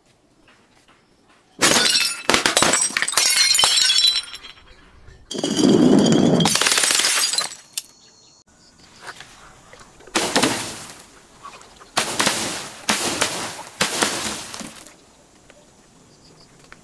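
Glass being smashed and crushed, shattering with tinkling fragments in a series of loud crashes: one long crash about two seconds in, another about five seconds in, then four shorter bursts in the second half.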